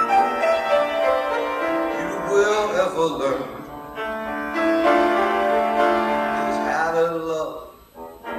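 Solo piano playing a slow jazz ballad, with a man's voice singing over it in long held notes; the sound dies away briefly near the end.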